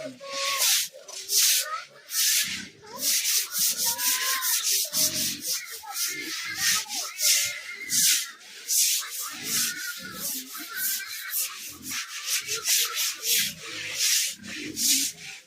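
Stiff broom swishing over a wet concrete pen floor in rapid, repeated strokes as the floor is rinsed clean, with pigs grunting and squealing now and then.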